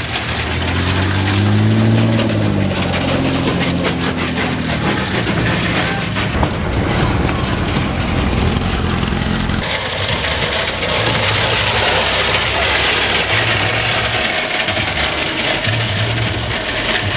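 Vehicle engine, its pitch rising and falling over the first few seconds as it revs or passes. About ten seconds in the sound changes abruptly to a steady, noisier wash with a low throb every second or two.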